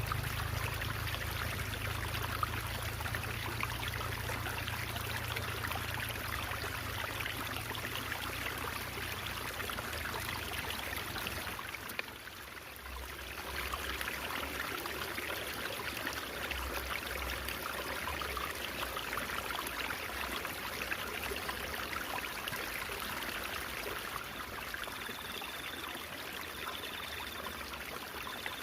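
Stream water babbling and trickling steadily, dipping briefly in level about twelve seconds in.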